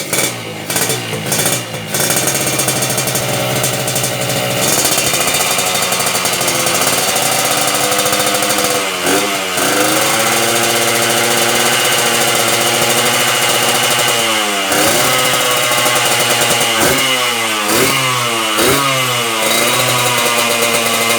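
Yamaha RX-King two-stroke single-cylinder engine running through a chrome PDK racing expansion-chamber exhaust, held at a fast idle and revved in repeated throttle blips, with several quick blips in a row near the end.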